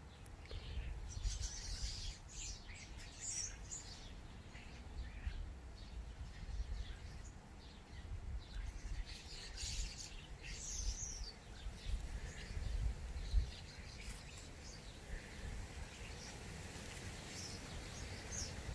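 Birds chirping now and then over a low, steady outdoor rumble, with a few faint clicks.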